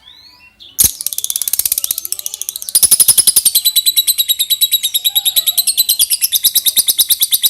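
Lovebird's long 'ngekek' song: a rapid, unbroken run of shrill chattering notes, several a second, that starts abruptly about a second in and keeps going without a pause.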